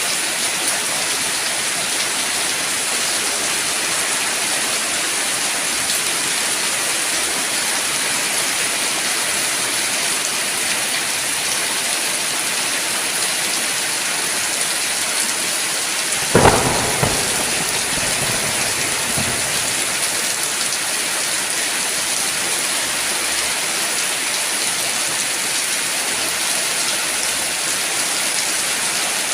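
Heavy rain falling steadily, with one sharp thunderclap a little past halfway that fades out as a low rumble over a few seconds.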